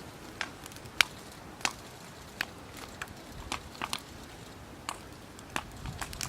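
A dozen or so sharp clicks and snaps at irregular intervals over a faint steady background, the loudest about a second in.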